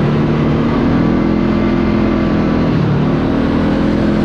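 Side-by-side UTV's engine running while driving along a trail, its pitch stepping up slightly as the throttle is opened about a second in and again near the end.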